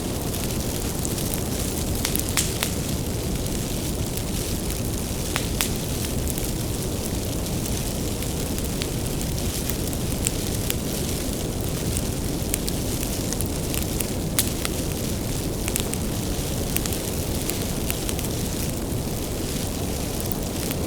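Wood bonfire burning with a steady low rumble and irregular sharp crackles and pops from the burning firewood.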